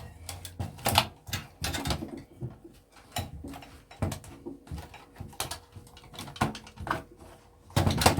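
Irregular clicks, knocks and rattles of wires and connectors being pulled out of a dismantled Sky satellite box.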